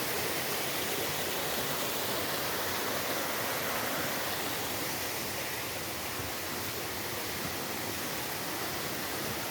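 Steady rush of flowing water from a stream or small cascades.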